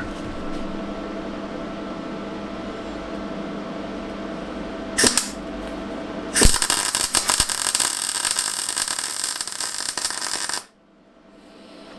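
MIG welder welding small steel tabs onto an angle-iron bracket. A brief arc strike comes about five seconds in, then about four seconds of continuous arc crackle that cuts off suddenly, all over a steady hum.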